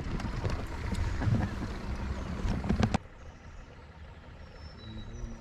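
Wind buffeting the microphone and water noise on an open fishing boat, with a few sharp knocks. About three seconds in it cuts off abruptly to a much quieter background.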